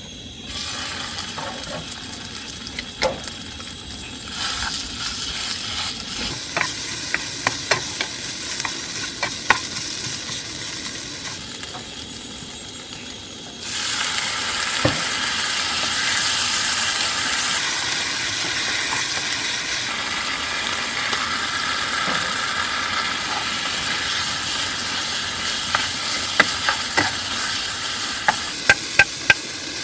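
Food frying in hot oil, a steady sizzle that jumps louder about fourteen seconds in, with scattered sharp clicks and taps of a utensil against the cookware.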